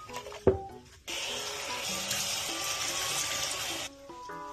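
Tap water running steadily into a sink while a cat's food bowl is washed, starting about a second in and shutting off near the end. A single knock of the bowl comes just before the water starts.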